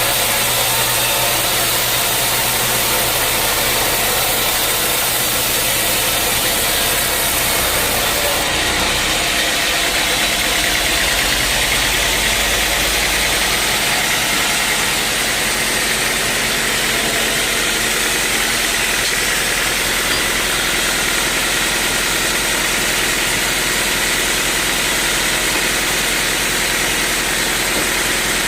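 Sawmill machinery running steadily: a continuous engine-like drone with a broad hiss, which changes slightly about eight seconds in and again around fourteen seconds.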